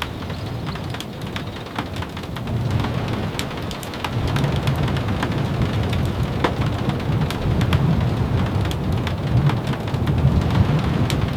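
Steady rain with scattered sharp ticks and pops, under a low rumble of thunder that swells about four seconds in and stays up.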